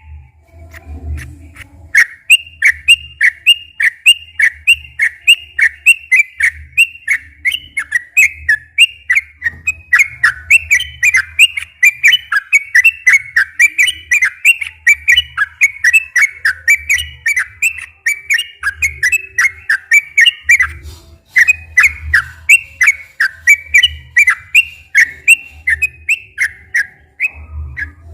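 Yellow-vented bulbul singing a long, fast run of short bubbly whistled notes, about three a second, with hardly a break.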